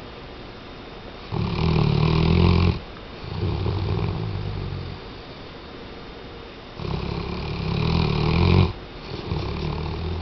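Weimaraner dog snoring: two breaths, each a loud snore about a second and a half long followed by a quieter one.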